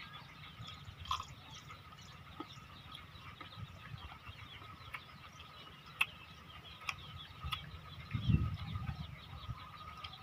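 Faint outdoor ambience: birds chirping against a steady thin high tone, with scattered sharp clicks. A cluster of soft low thumps comes about eight seconds in.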